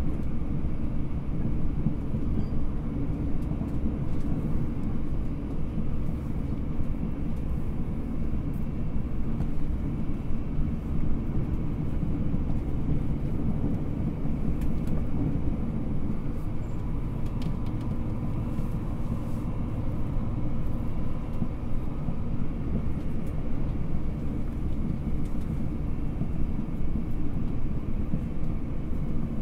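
Steady running noise of a JR Hokkaido 789 series 1000 subseries electric train, heard inside the passenger cabin of a motor car: a continuous low rumble from wheels on rail and running gear while cruising between stations.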